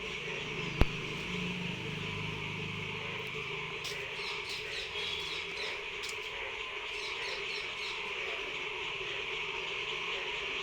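Outdoor nature ambience: birds chirping in short repeated calls over a steady insect drone. A single sharp click about a second in.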